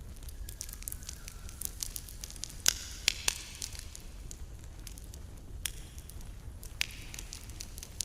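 Wood campfire crackling, with irregular sharp pops and snaps, a few louder ones about three seconds in.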